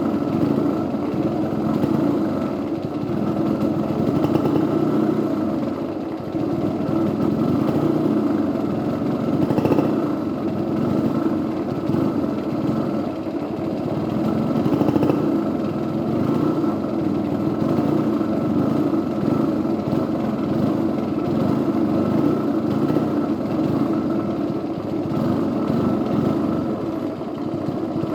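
Yamaha RD50's small two-stroke single-cylinder engine running steadily, its speed rising and falling a little at times. It is a bike whose engine won't rev out and smokes white, which the owner suspects is a primary (crankcase) compression leak.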